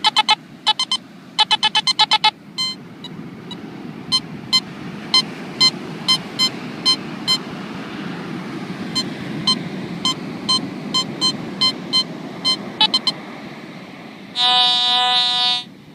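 Metal detector beeping: quick clusters of short high beeps, then single beeps spaced roughly twice a second, and near the end a longer, lower, buzzy tone lasting over a second.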